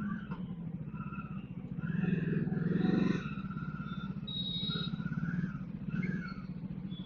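Bajaj Dominar 400's single-cylinder engine running on the move, heard from onboard. The engine note swells about two seconds in and eases off again after about three seconds.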